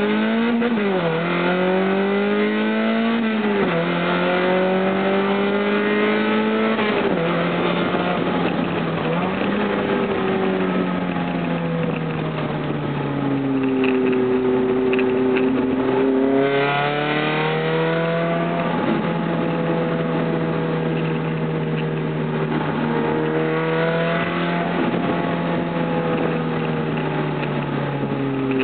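Mazda Miata four-cylinder engine through a Spec Miata exhaust, accelerating hard: the pitch climbs and drops back at several quick upshifts. It then eases off to a low, steady note before pulling up again and holding a steady cruise.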